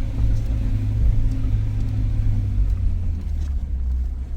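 Suzuki Jimny engine running with a low, steady drone as the car crawls over a rocky track in four-wheel-drive low range.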